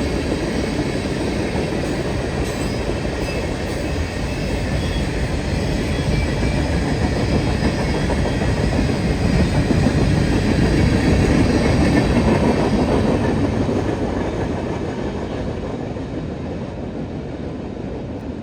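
A train rolling past on the track, the steady noise of its wheels and cars swelling to its loudest a little past the middle and then slowly fading away.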